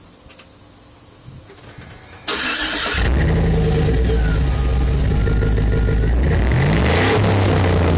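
2007 GMC Sierra's gas engine cranking and catching about two seconds in, then running loud and steady through Flowmaster turn-down exhaust, with a short rise in revs near the end.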